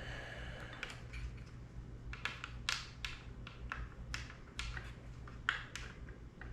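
Irregular small clicks and taps of drone parts and plastic pieces being handled and fitted by hand, over a low steady hum.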